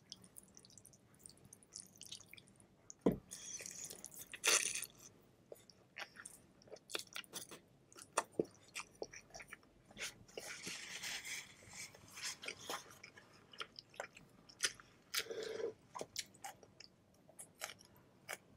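Close-miked eating of pho noodles: chewing with many short wet mouth clicks, and longer hissing stretches about four and ten seconds in.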